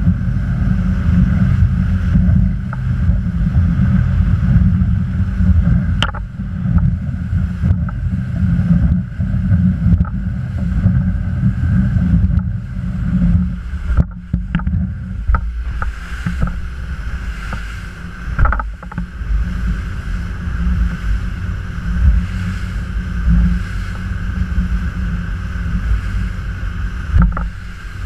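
Boat under way on open water, with a loud, uneven rumble of wind buffeting the microphone and a few sharp knocks.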